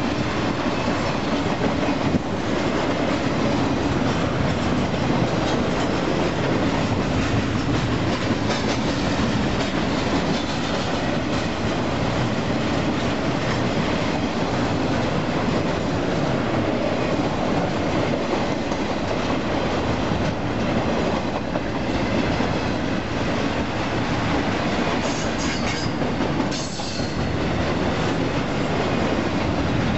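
Double-stack intermodal container train rolling past at speed: a steady rumble of steel wheels on the rails, with clickety-clack from the cars' wheels.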